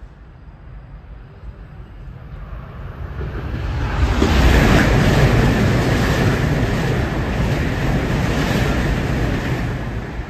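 Eurostar high-speed train passing through the station at speed without stopping. A rushing noise builds over about four seconds, holds loud, and begins to fade near the end, with a faint steady whine in it.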